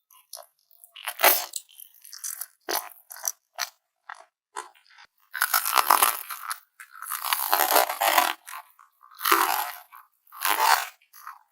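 Close-up eating sounds of a person biting and chewing crunchy food, with irregular crisp crunches and wet mouth clicks. The longer crunches come in the second half.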